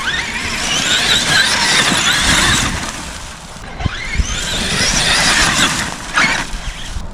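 Traxxas X-Maxx RC monster truck's brushless electric motor whining under throttle in two bursts of a few seconds each, its pitch wavering as the throttle changes, with tyre and drivetrain noise.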